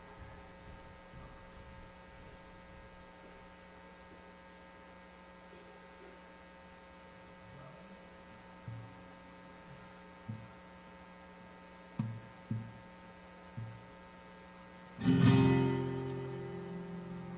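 Faint steady mains hum with a few soft low knocks, then, about fifteen seconds in, a loud strummed acoustic guitar chord that rings out as the song's recorded music starts.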